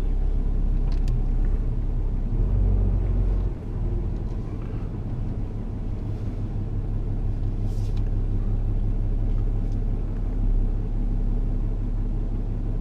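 Tow vehicle's engine and road rumble heard from inside the cab while pulling an RV trailer at low speed, with a brief dip in the engine note about three and a half seconds in.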